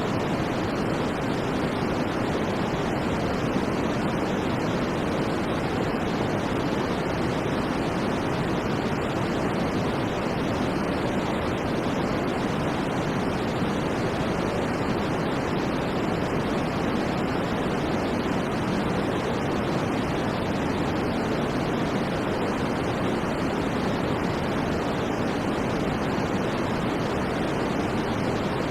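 Steady white noise for sleep, an even rushing hiss at one unchanging level with no rhythm or events. It sounds deeper than a pure hiss, with little in the very high range.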